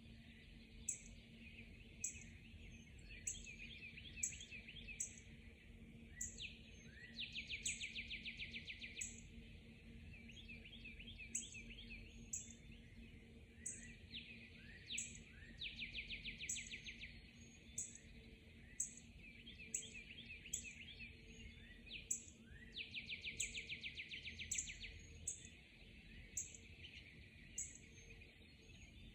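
Dawn chorus of several songbirds. Very high, short chirps come about once or twice a second, and a rapid trill lasting about two seconds repeats roughly every eight seconds. Some shorter falling notes are mixed in, with a faint steady hum underneath.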